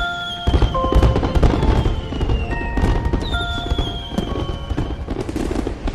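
Fireworks bursting and crackling in a dense, continuous volley that starts about half a second in and dies away near the end, over background music.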